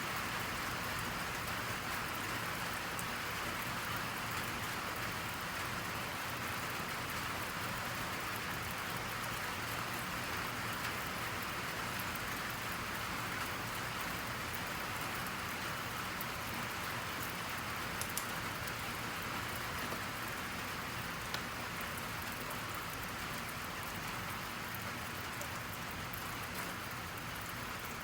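Steady rain falling on a surface, an even hiss without a break, with a couple of faint clicks late on.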